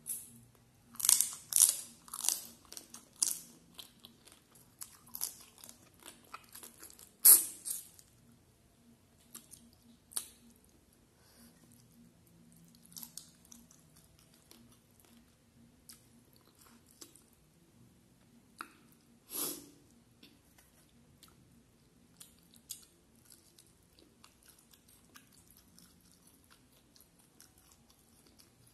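Close-miked chewing of a curried prawn: a quick run of loud crunches about a second in, a sharp loud crunch around seven seconds, another near twenty seconds, and softer wet chewing in between that dies down toward the end.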